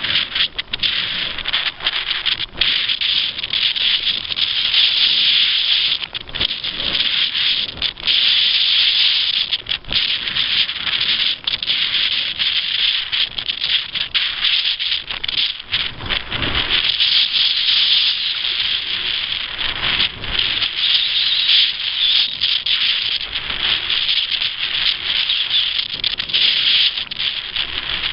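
Steady loud hiss of water rushing along the hull of a sailing kayak, with many brief dips.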